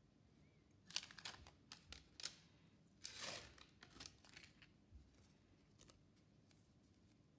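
Small sharp clicks and knocks from handling small parts, with a short rustle about three seconds in and a few fainter clicks after it.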